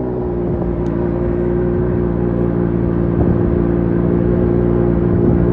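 Lamborghini Aventador's V12 engine running at a steady idle, its pitch settling down slightly in the first second after start-up, with a deep low rumble underneath.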